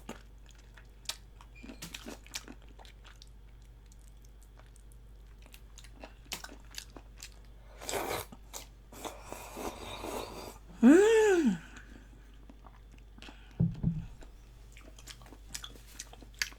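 Close-miked eating of soup-braised chicken feet: chewing and sucking with small crunches and wet mouth clicks. About eleven seconds in comes a short hummed "mm" that rises and falls in pitch.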